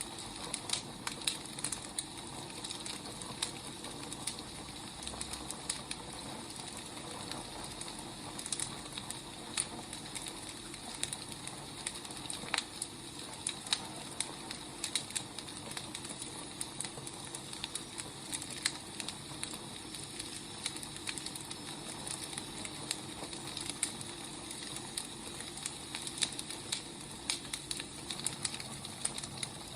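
Firewood burning: irregular crackles and pops over a steady hiss.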